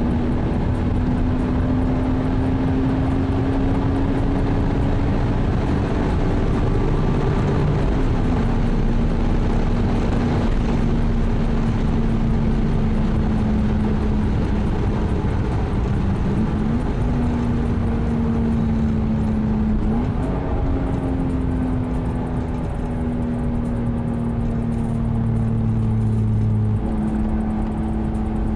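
Toyota Supra MK4's 2JZ-GTE twin-turbo straight-six running hard at a steady high pitch during a high-speed run, with heavy wind and road noise. The engine note holds for long stretches, dipping briefly and picking back up a few times.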